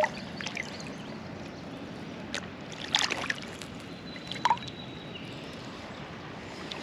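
Creek water running steadily, with a few brief sharp sounds near the middle.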